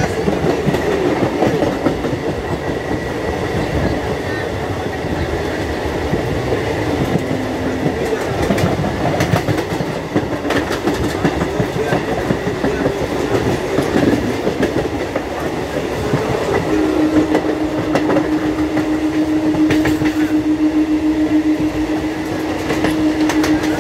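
Electric multiple-unit local trains running at speed: a steady rumble of wheels on rail, with sharp clicks as the wheels cross rail joints. A steady low hum sets in about two-thirds of the way through.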